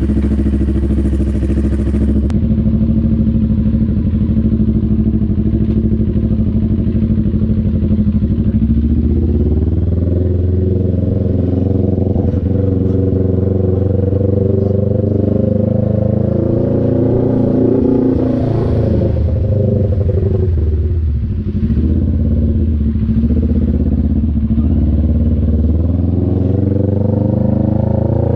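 CF Moto NK400's 400 cc two-cylinder engine running, steady at first, then its revs rising and falling repeatedly from about a third of the way in.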